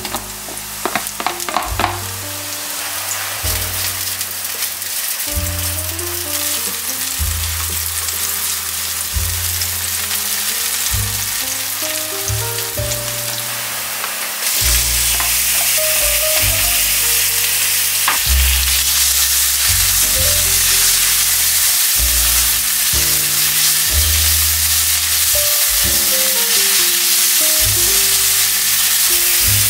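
Sliced green onion sizzling in hot oil in a wok. About halfway, ground pork is tipped in and the frying gets louder, with a silicone spatula stirring near the end. Background music with a bass line plays throughout.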